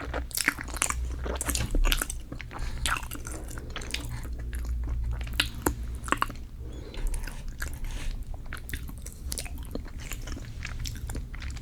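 Close-miked chewing of dense, creamy cheesecake, with many irregular sticky, wet mouth clicks and smacks.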